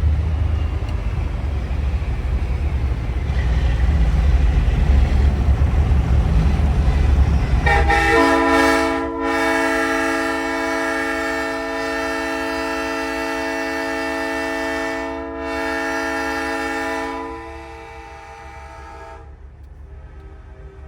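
Low rumble of a big rig's diesel engine and road noise, then about eight seconds in a truck-mounted Nathan Airchime train horn blows one long multi-note chord, broken twice for an instant, cutting off after about nine seconds.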